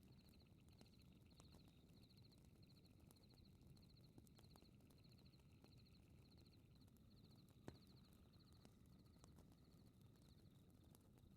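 Faint fireplace crackling: a low steady rumble with scattered sharp crackles and a louder pop about eight seconds in. Crickets chirp throughout in short pulsed trills, roughly three every two seconds.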